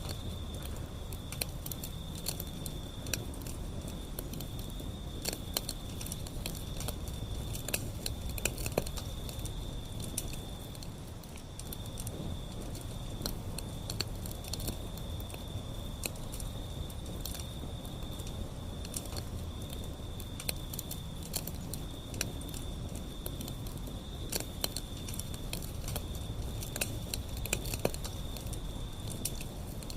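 Wood fire burning, with irregular sharp crackles and pops over a steady low rumble of the flames, and a faint steady high-pitched tone throughout.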